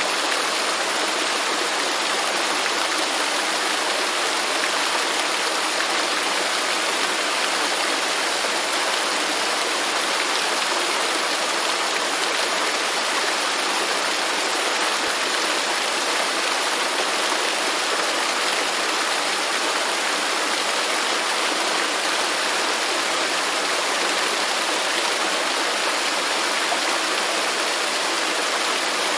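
Waterfall: steady rushing and splashing of falling water, an even hiss with little bass and no change.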